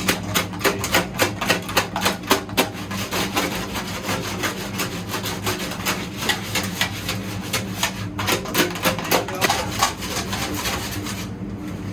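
Rust being scrubbed off motorcycle fuel-pump parts: fast repeated rasping strokes, about three to four a second, over a steady low hum.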